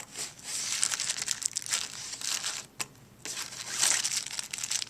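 Crinkling and rustling handling noise from the soft pet travel bag and its pocket being handled, in bursts of crackles with a short pause about three seconds in.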